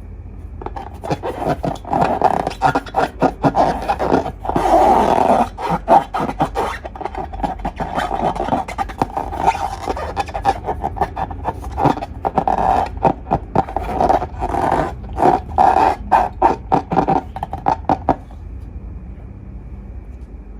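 Slime being squeezed and worked by hand: a dense run of wet crackling and squelching air pops, stopping abruptly near the end.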